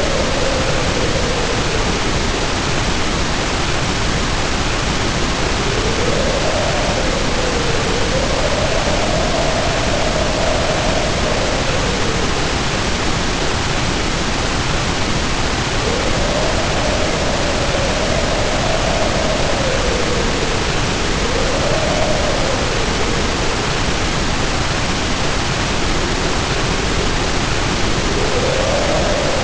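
Heavy rain pouring steadily, with wind howling over it in a faint moaning tone that swells and falls in slow waves every few seconds.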